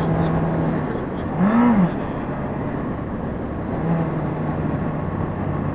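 Honda CBR600RR inline-four engine running steadily while riding, under a rushing haze of wind noise. A short rising-and-falling pitched sound comes about one and a half seconds in.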